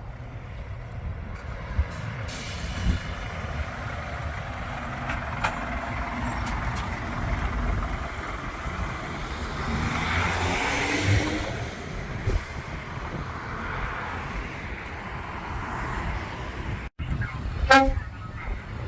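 Heavy trucks driving by with their diesel engines running, the engine note rising briefly as one pulls away. Near the end a truck's horn gives a short, loud toot.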